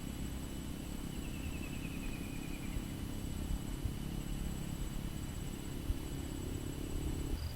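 Outdoor ambience: a steady low noise with faint, repeating high-pitched trills, and a short trill falling in pitch about a second in. The low noise stops abruptly shortly before the end.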